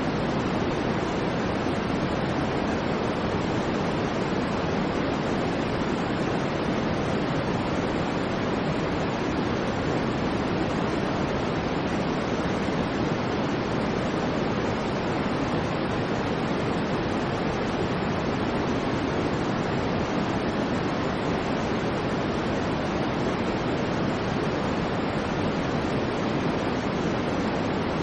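Steady white noise: an even, unchanging hiss that neither rises nor falls.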